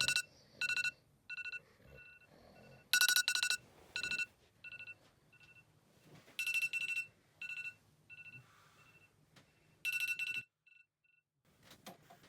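Electronic alarm beeping: a high beep tone in quick patterns, repeating in rounds about every three and a half seconds. Each round starts loud and dies away through fainter, echoing repeats, and the beeping stops about ten and a half seconds in.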